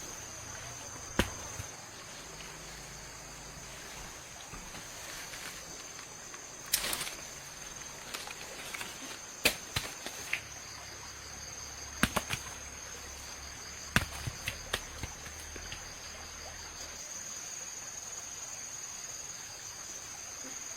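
Steady high-pitched drone of insects such as crickets, with a dozen or so sharp knocks and clicks scattered through it.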